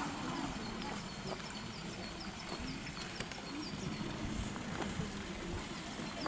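A rapid, even series of short, high chirps, about four a second, like a small bird calling, over a low outdoor background with a few faint clicks.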